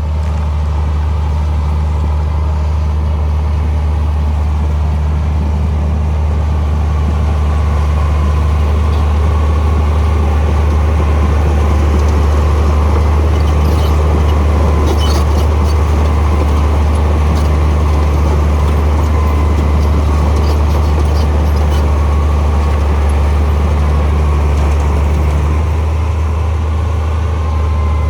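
Diesel engine of heavy earthmoving machinery running steadily, a loud, deep, unbroken drone, with a few faint ticks.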